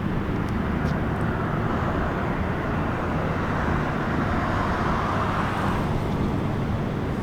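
Steady low engine rumble of motor vehicles, with a passing vehicle's noise swelling a few seconds in and fading near six seconds.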